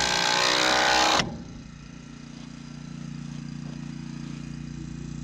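Cordless impact driver driving a long log screw, stopping abruptly about a second in. A steady low hum, like an idling engine, runs underneath.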